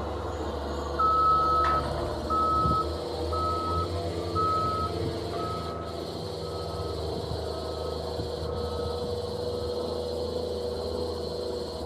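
Vehicle reversing alarm beeping at one steady pitch, about once a second, growing fainter over nine or ten beeps, over a low steady engine hum.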